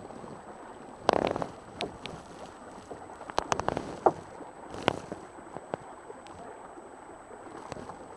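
Water splashing and lapping against the hull of a small sailing boat, with scattered knocks and splashes and wind on the microphone.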